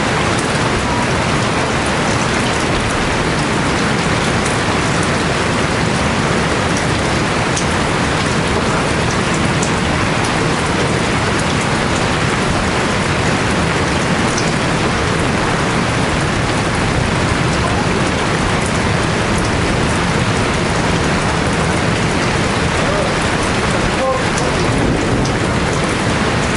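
Steady heavy rainfall, an even rushing hiss, with occasional individual drops ticking on top.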